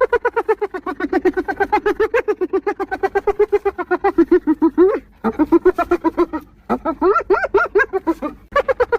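Spotted hyena giggling: rapid, pitched whooping notes about ten a second, in three runs broken by short pauses about five and six and a half seconds in.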